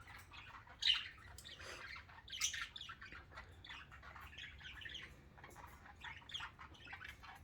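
Pet budgerigars chirping and squawking softly in short, scattered calls.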